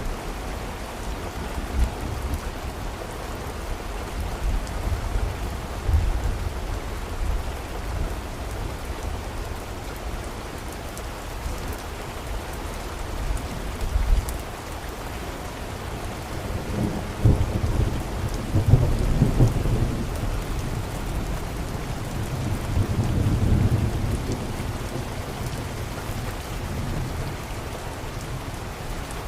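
Steady rain with low rolling thunder. The rumble swells a little past halfway through and again a few seconds later.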